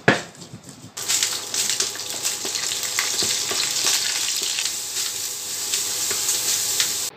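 A single sharp knock, as of a stone pestle on a stone mortar, then from about a second in, small anchovies and chili spice paste sizzling and crackling as they fry in oil in a wok, stirred with a wooden spatula. The frying cuts off suddenly near the end.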